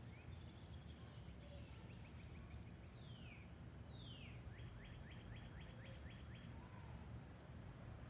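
Faint birdsong: a few short high notes, then two falling calls about three and four seconds in, followed by a quick run of short repeated notes. A steady low rumble runs underneath.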